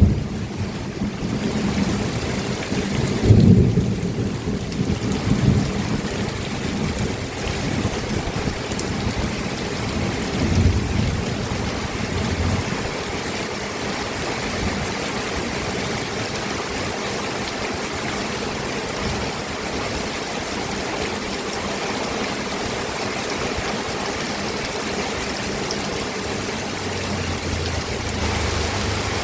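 Steady rain falling, with low rumbles of thunder about three to five seconds in and again around ten seconds, then rain alone.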